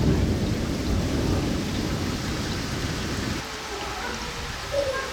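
Thunder rumbling low over steady rain; the rumble fades out about three and a half seconds in, leaving the hiss of the rain.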